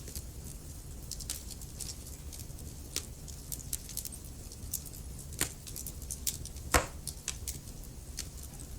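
Wood fire crackling: irregular sharp pops and snaps, with a louder pop late on, over a low steady rumble.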